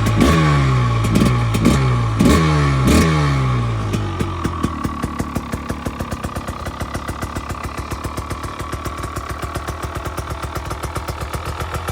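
KTM 300 XC-W two-stroke single-cylinder dirt bike engine being blipped, with several quick throttle revs in the first three seconds that each fall straight back, then settling into a steady idle with a regular firing putter.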